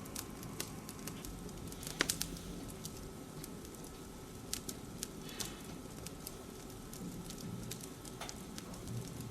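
Wood fire crackling in a glass-fronted wood-burning stove: scattered sharp pops, with a quick cluster of them about two seconds in, over a faint steady hiss.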